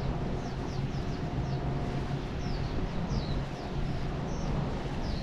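Small birds chirping over and over, short high notes that each drop in pitch, above a steady low rumble.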